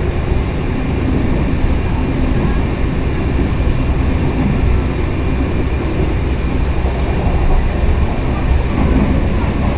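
Steady low rumble of the KA Bengawan passenger train running along the line, heard from inside the carriage.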